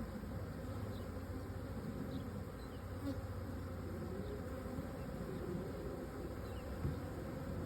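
Steady buzzing hum of a honey bee swarm, many bees flying close around the hive box after the swarm has been knocked into it and the lid put on.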